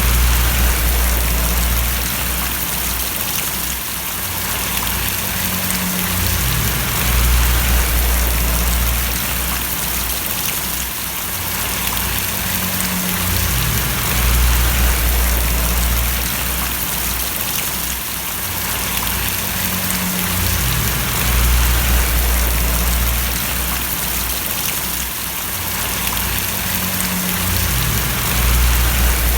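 Steady rain falling, an even hiss of drops, with a low rumble underneath that swells and eases about every seven seconds.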